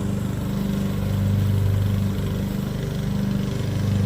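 Riding lawn mower's small engine running steadily under mowing load, growing a little louder and softer as the mower moves about the yard.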